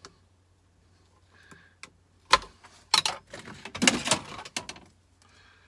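A capacitor being opened with a Stanley knife. There is a sharp crack about two seconds in, then a couple of seconds of loud scraping, clicking and tearing as the casing is cut and prised apart.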